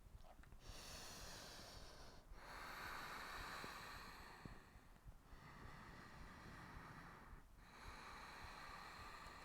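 Faint, slow, deep breathing through the nose and mouth, each inhale or exhale a soft hiss lasting two to three seconds, with short pauses between them.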